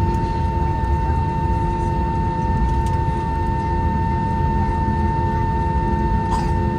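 Airbus A321-231 taxiing on a single running IAE V2500 engine: a steady low rumble with a constant whine.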